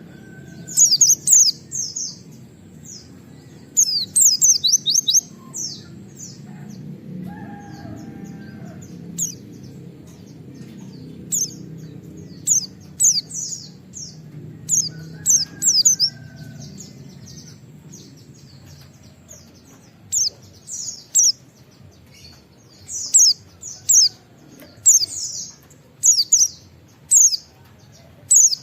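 White-eye (pleci) singing in bursts of rapid, high, sharp downward-sweeping notes, the 'wit wit' shooting phrases, repeated every second or two with short pauses between. Underneath is a faint steady low background noise.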